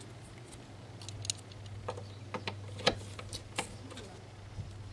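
Scattered metallic clicks and ticks, irregularly spaced about half a second to a second apart, from a hand tool working on a lawn mower engine's mounting bolts. A low steady hum runs underneath.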